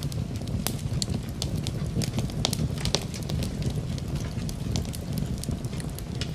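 Wood fire crackling in a fireplace: irregular sharp pops and snaps, several a second, over a steady low rumble, with rain as a soft background.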